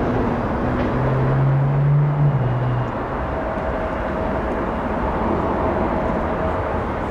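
Jet airliner engine noise, a steady rumble, with a low hum that stops about three seconds in.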